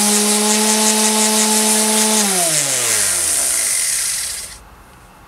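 Black + Decker 230 W random orbital sander running on wood with coarse sandpaper, a steady motor hum over a high sanding hiss. About two seconds in it is switched off and the motor's pitch falls as it winds down; the sanding hiss stops about four and a half seconds in.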